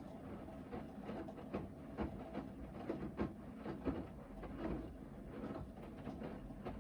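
Hoover VHD 9163 ZI washing machine in the main wash of its Rapid 29' cycle: the drum turns and tumbles the wet load, with a steady motor hum and irregular soft knocks as the laundry drops.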